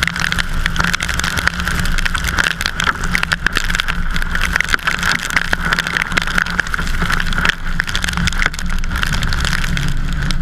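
A vehicle on the move, with steady road and wind noise and many small ticks and pops.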